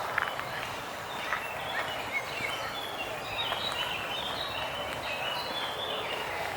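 A small bird singing a quick run of short, high notes that step up and down in pitch, with a few footstep clicks on the path.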